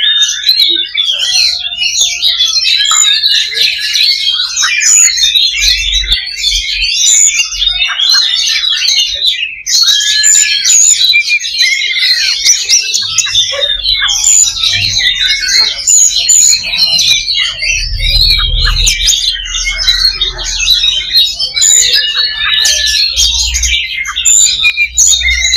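Oriental magpie-robin (kacer) singing its heated, fighting-mood territorial song: a dense, unbroken stream of fast chirps, trills and high whistles.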